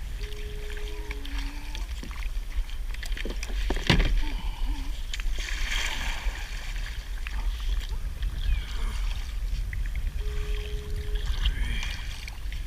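Kayak moving on open water: paddle strokes and water sloshing against the hull, over a steady low wind rumble on the microphone, with a sharp knock about four seconds in.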